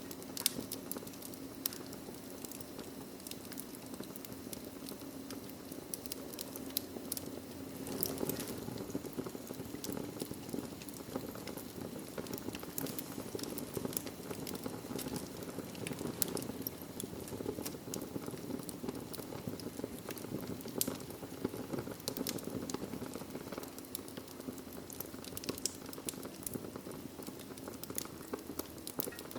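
Wood fire crackling steadily, with frequent sharp pops and snaps over a low, even hiss of the flames.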